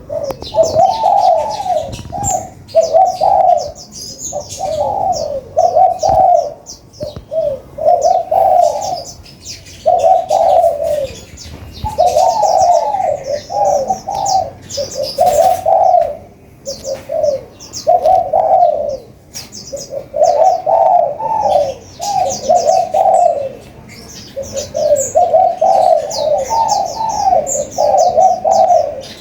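Spotted doves cooing over and over in a steady run of short, mellow phrases, with thin high chirps from small birds above them.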